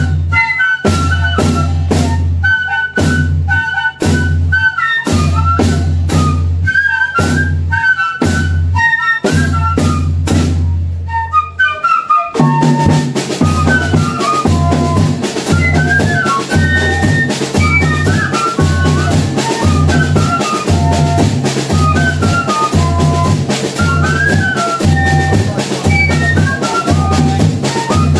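Banda de pífano playing: a cane-fife melody over steady zabumba bass-drum beats. About twelve seconds in, the rest of the percussion joins and the music turns thicker and busier under the fife.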